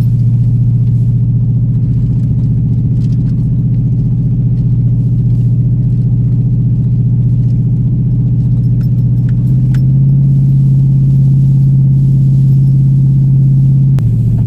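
Lifted 2007 Chevy Silverado's engine running steadily under load in four-wheel-drive high as the truck pushes through deep snow, heard as a low drone inside the cab. The engine note steps up about two-thirds of the way in, then drops back near the end, with light rattles and clicks over it.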